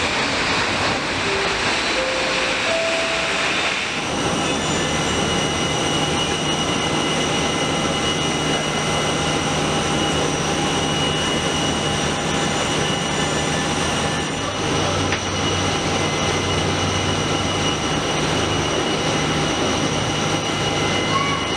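Jet airliner at the stand, an easyJet Airbus A320neo being pushed back: a steady high whine over a low hum, with a constant rush of noise. The whine and hum set in about four seconds in, as the pushback begins.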